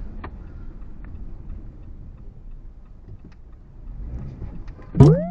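Car cabin noise while driving: a steady low rumble of road and engine, with a few faint scattered clicks. Near the end comes a sudden loud sound with a steady low tone.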